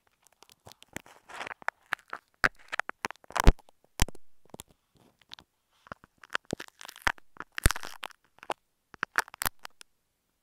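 Close-up crackling, clicking and crunching on an earphone microphone as something like apple snail egg clusters is picked and scraped off it. The sharp clicks and crackly bursts come at irregular intervals.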